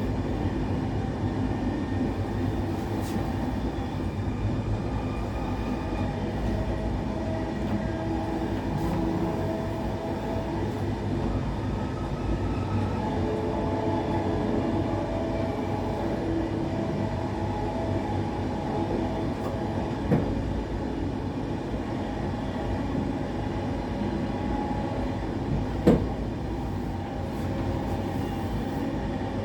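Passenger train running along the track, heard from on board: a steady rumble with faint shifting tones. Two sharp knocks come in the second half, the later one louder.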